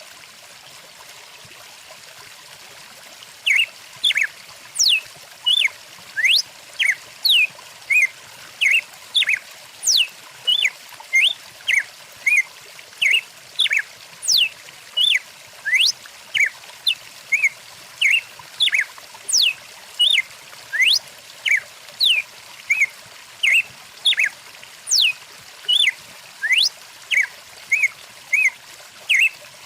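A stream running steadily, with a bird starting to call about three and a half seconds in: short chirps repeating more than once a second, mixed with quick whistled notes sweeping up and down. The bird calls are the loudest sound.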